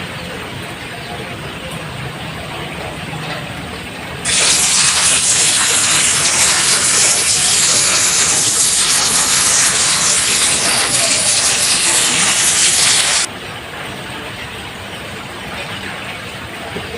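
Steady rain falling on a roof. About four seconds in, a much louder, even hiss starts abruptly, holds for about nine seconds, and cuts off suddenly.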